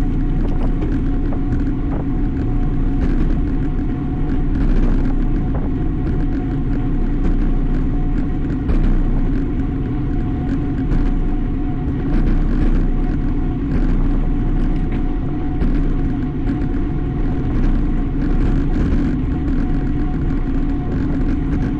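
Steady rumble of wind and road noise from a road bicycle being ridden, with a faint steady whine and scattered small clicks.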